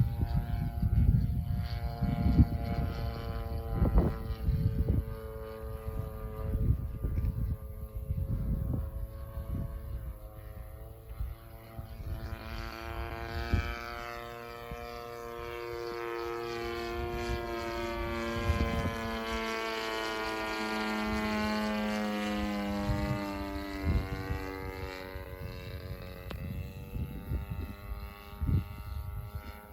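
Radio-controlled model plane's DLE 30 single-cylinder two-stroke petrol engine and propeller in flight. The engine note glides up and down in pitch and loudness as the plane flies past and manoeuvres, and is loudest a little past the middle.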